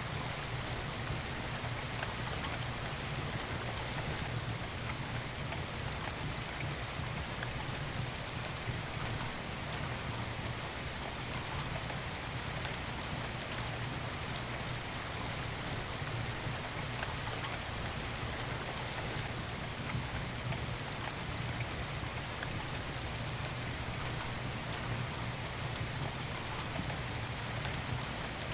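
Steady rain falling, an even hiss that does not change, with a few faint sharp clicks.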